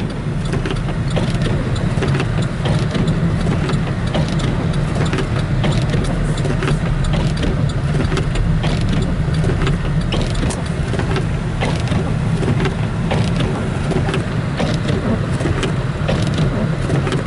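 Steady engine and road noise heard inside a moving car's cabin while driving on a snowy road, with scattered light ticks throughout.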